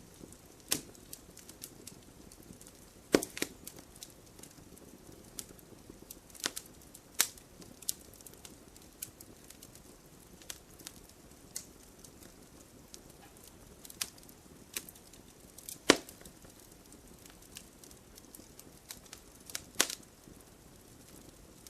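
Wood fire crackling in a fireplace: irregular sharp pops and snaps of burning logs, a few much louder than the rest, over a soft steady hiss.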